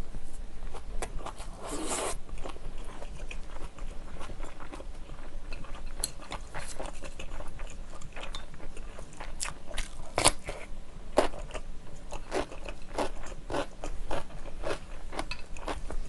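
Close-miked chewing and crunching as a person eats kimchi fried rice with crunchy kimchi side dishes: irregular sharp crunches, a few louder ones about ten seconds in.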